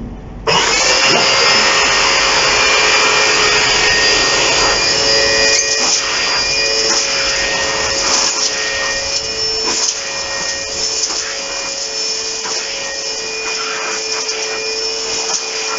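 Vacuum cleaner motor switched on about half a second in and running steadily at full speed, a loud whine over rushing air. This is its test run after its carbon brushes were replaced, and it is working.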